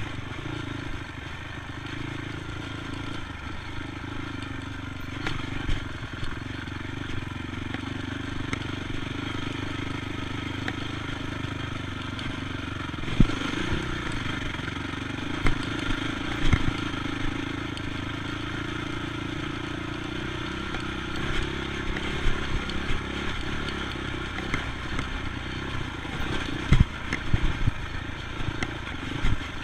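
ATV engine running steadily under way, its pitch drifting slowly up and down, with sharp knocks and rattles now and then, the loudest about 13 seconds in and near the end.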